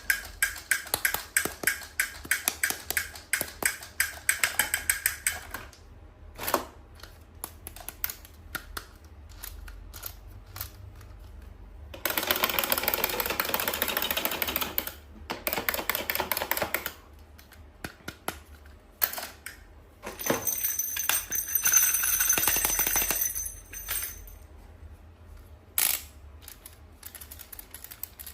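Toy unboxing: hands handling plastic toys and packaging. About five seconds of rapid clicks and taps come first, then two spells of dense rustling a few seconds long, with scattered taps between them.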